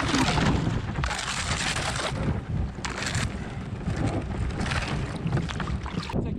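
Wind rumbling on the microphone over river water, with surges of rushing, splashing water noise that swell and fade every second or so.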